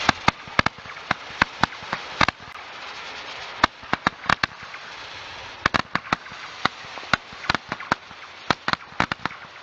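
Super candle firework going off: a fast, irregular string of sharp cracks and pops over a steady hiss.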